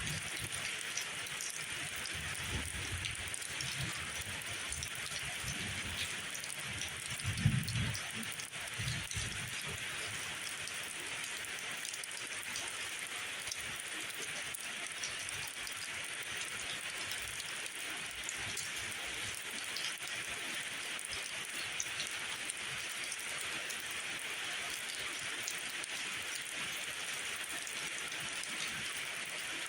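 Steady rain falling as an even hiss. Over it come a few low rumbles in the first third, the loudest a short thump about seven and a half seconds in.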